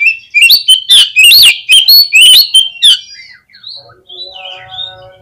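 Oriental magpie-robin (kacer) singing: a loud run of rapid, varied whistled notes and sharp clicks for about three seconds, then softer twittering. A steady humming tone joins about four seconds in.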